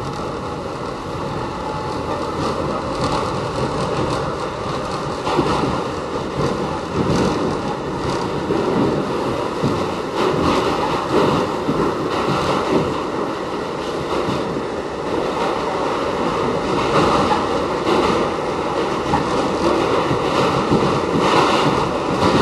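Westinghouse-built R68 subway car running on the D line, a steady rumble of wheels on rail and running gear that grows gradually louder.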